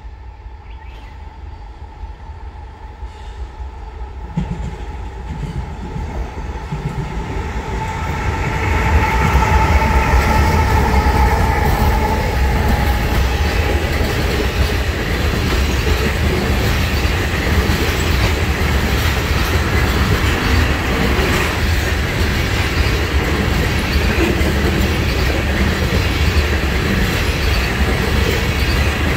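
Norfolk Southern diesel freight locomotives approaching, their engine tone growing louder until they pass about eight seconds in. After that comes the steady, loud roll of a long train of loaded oil tank cars going by.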